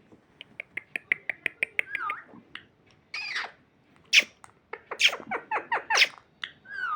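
Pet parrot calling: a quick run of short clicking chirps, then a few bending calls and a string of short, sharp squawks.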